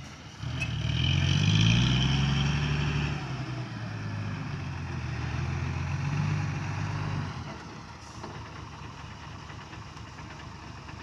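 Heavy dump truck's diesel engine revving up about half a second in and running loud for several seconds, then dropping back to a quieter idle about seven seconds in.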